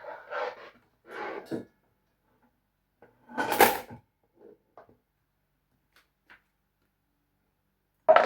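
Kitchen handling sounds from cutting up a watermelon: a few short noisy strokes, a louder one about three and a half seconds in, some faint ticks, and a sharp knock near the end.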